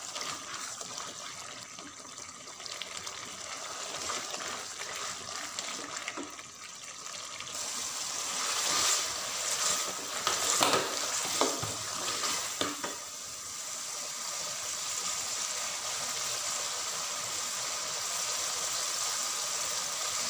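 Onion masala sizzling as it is fried down in oil in a metal pot, with a spatula stirring and scraping through it. The sizzle grows louder about a third of the way in, with a few scrapes in the middle.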